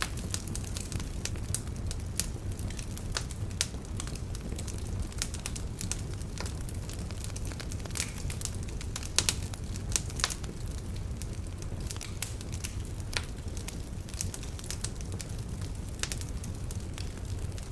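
Wood fire in a fireplace, burning logs crackling with frequent irregular sharp pops over a steady low rumble. A few louder pops come about nine to ten seconds in.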